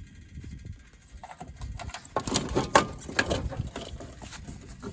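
Irregular clattering, knocking and scraping of a ceiling fan's parts being worked apart by hand, starting about a second in and getting busier and louder a second later.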